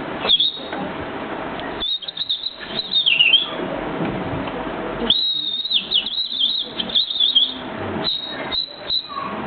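A man's vocal impression of a wren's song: bursts of quick, high chirps and trills, in two main runs about two seconds and five seconds in, with shorter phrases near the end.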